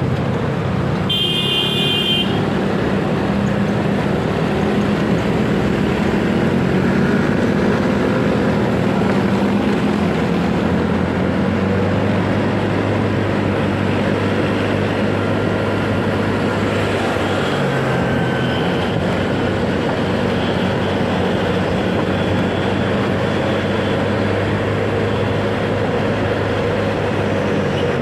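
Motorcycle engine running steadily while riding in city traffic, with road and wind noise. A short horn beep sounds about a second in.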